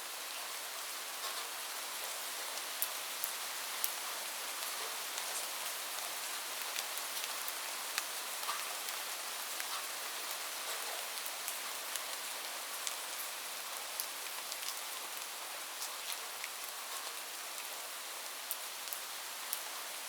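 Steady rain falling on a surface: an even hiss with many scattered, sharper drop ticks.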